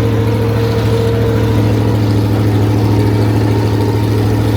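Monster truck's engine running steadily at an even speed, a deep unchanging drone.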